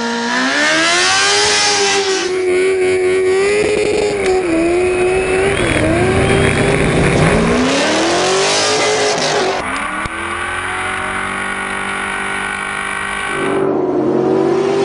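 Vehicle engine revving hard and rising and falling in pitch through a drift run, with two stretches of loud hiss, near the start and about halfway through.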